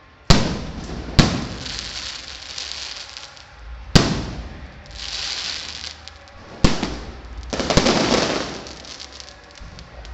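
Fireworks going off: five sharp bangs at uneven intervals, each followed by crackling and hissing that fades over a second or two, the longest crackle coming after the last two bangs.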